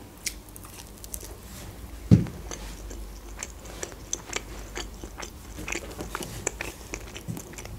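Close-miked eating sounds of a slice of pizza: biting and chewing, with many small wet mouth clicks.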